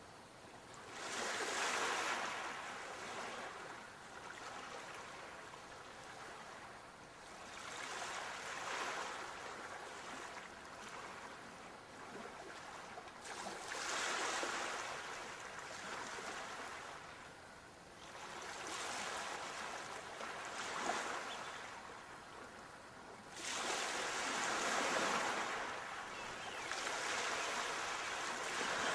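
Sea waves breaking and washing on a shore, surging in roughly every five or six seconds and easing off between breaks.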